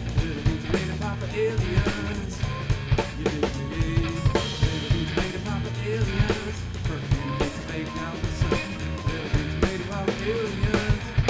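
Rock band playing an instrumental stretch live: drum kit hits in a steady beat over bass and guitar lines. The music cuts off suddenly at the end.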